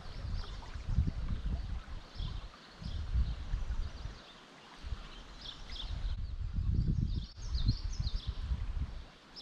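Small birds chirping in short repeated phrases over faint outdoor ambience, with loud bursts of low rumble in the first few seconds and again about two-thirds of the way through.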